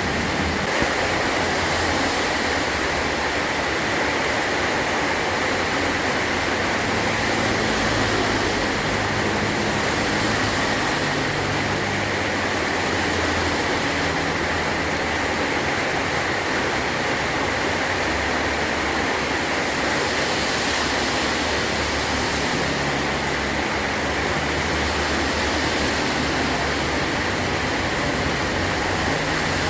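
Heavy rain pouring steadily on a metal tin roof, a dense even hiss with a soft low rumble underneath.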